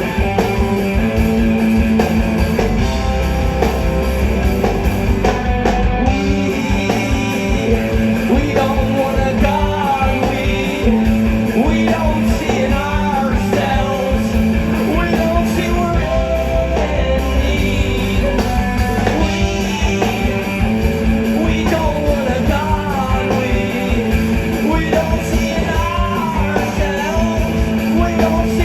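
Rock band playing loud and live: electric guitars, bass and drums, with a singer's voice over the band.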